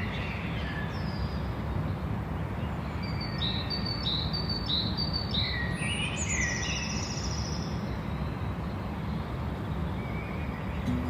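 Garden birds chirping and calling over a steady low background rumble, with a run of four quick repeated down-slurred notes from one bird a few seconds in.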